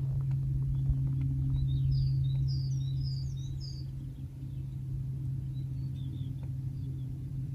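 A small songbird chirps a quick run of short high notes about two to four seconds in, and briefly again later. Under it runs a steady low hum, with faint scuffs like footsteps on rock.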